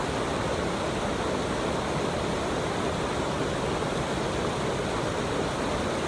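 River water rushing steadily, like a small waterfall or riffle.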